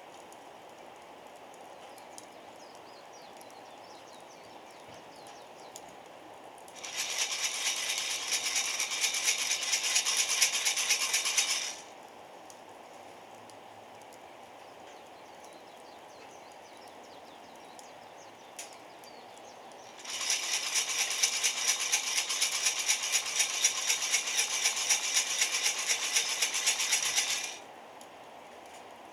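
Coffee beans rattling inside a roaster over a wood fire, in two bouts of fast, dense rattling, the first about five seconds long, the second about seven, over a faint steady hiss.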